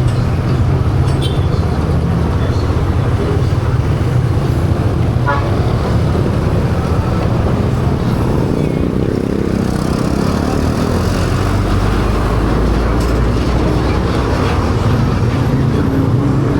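Yamaha PG-1's small single-cylinder engine running steadily under way, heard together with wind and road noise.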